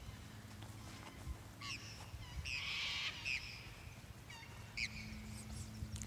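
Birds calling: a string of short squawks with a longer harsh screech about two and a half seconds in, over a low steady hum.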